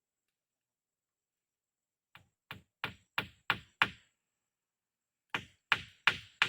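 Repeated sharp knocking blows, about three a second: six strikes, a short pause, then a second steady run of strikes starting near the end.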